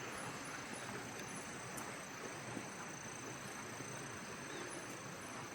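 Outdoor countryside ambience: a steady soft hiss with faint, continuous high-pitched insect trilling.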